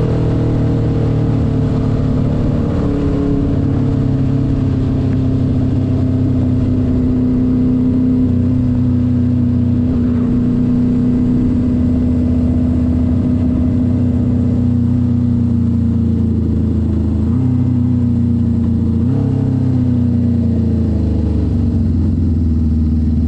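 1972 Honda CB500's air-cooled inline-four engine running under way at a steady cruise. The revs lift briefly twice in the second half, then drop near the end.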